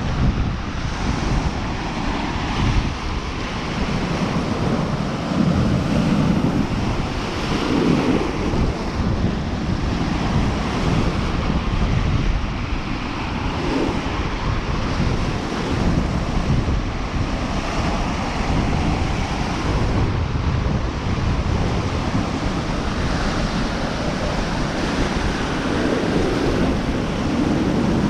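Lake waves washing onto the shore in a steady surge, with wind buffeting the microphone.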